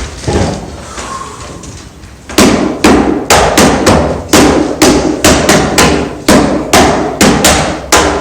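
A rapid run of hard knocks, like hammer blows on wood, starting about two seconds in and going on at two to three strikes a second, about seventeen in all.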